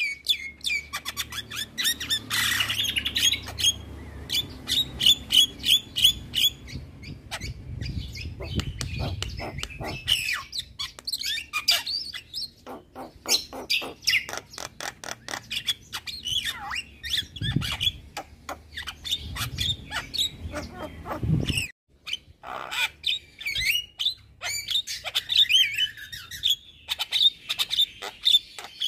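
Javan myna singing vigorously: a long, fast run of chattering clicks, short whistles and squawky notes with hardly a pause.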